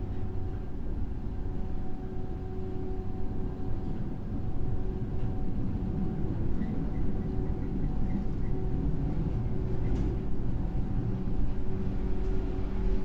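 Running sound inside a JR 103 series electric motor car with MT55 traction motors: a steady rumble of wheels on rail with a motor and gear hum that holds one pitch, as at a constant speed between stations.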